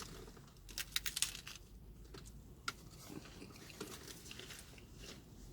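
Faint chewing and crunching of a crisp Doritos Locos taco shell: a quick cluster of crunches about a second in, then a few single crackles.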